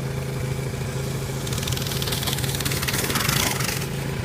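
A small off-road vehicle engine running steadily at idle close by, with a louder rasping noise rising from about a second and a half in and stopping shortly before the end.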